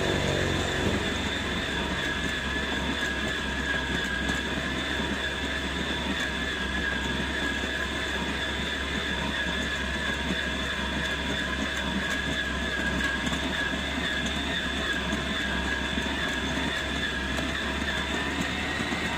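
Electric stand mixer kneading bread dough, its motor running steadily with a high whine; the pitch rises slightly near the end.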